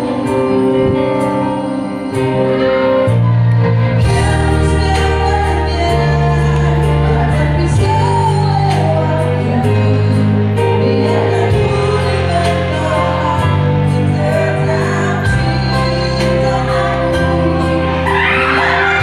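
A live band plays a song with a singer: held chords over changing bass notes, with a steady beat coming in about four seconds in and a sung melody over it.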